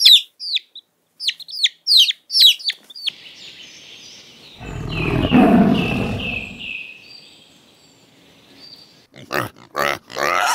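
Farm animal sounds: a quick series of high, falling bird chirps, then one long, low, rough animal call, the loudest part, followed near the end by a few short sharp grunts.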